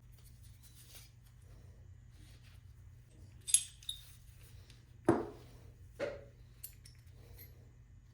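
Metal hand plane parts being handled: a sharp clink about three and a half seconds in, then a louder knock and a smaller one about a second apart, over a steady low hum.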